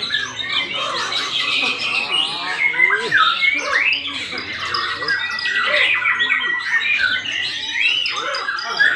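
Many birds squawking and chattering at once, their rapid gliding calls overlapping without a break.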